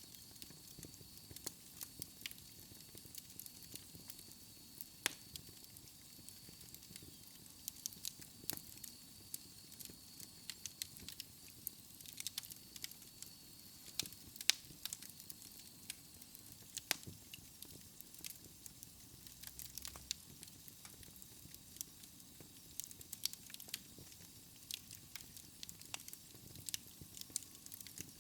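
Log fire burning in a fireplace: irregular sharp crackles and pops of the wood over a soft, steady hiss. A faint high steady tone sounds through the first half and fades out about halfway through.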